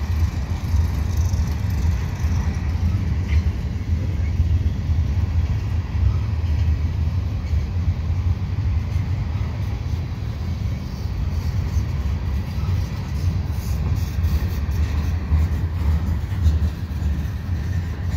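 Freight train gondola cars rolling slowly past: a steady low rumble of steel wheels on the rails.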